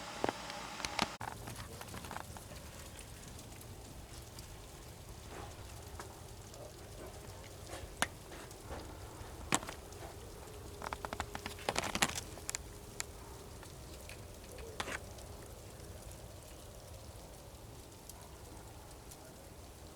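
Sparse, irregular light taps and clicks, a cluster of them about two-thirds of the way through, over a faint steady hiss.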